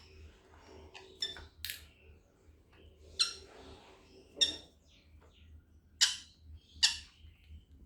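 Pet conures giving a scattered series of short, sharp calls, about seven in all, the loudest around three, six and seven seconds in.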